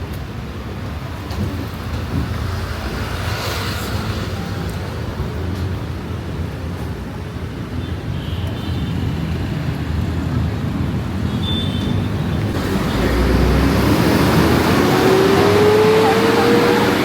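Steady road traffic noise. It swells about twelve seconds in as a vehicle comes close, and near the end a rising whine is heard.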